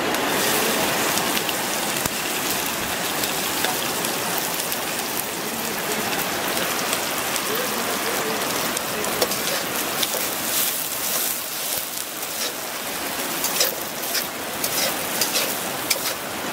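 Sliced onions and green chillies sizzling loudly in hot oil in a wok, the sizzle starting as they are tipped in. In the second half, sharp clicks and scrapes come over it as a metal spatula stirs them.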